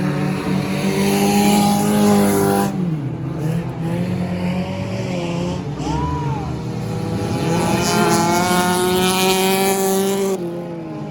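Several stock car engines running on the track during an enduro race, their pitch rising and falling as the cars accelerate and slow, with one engine revving up about eight seconds in.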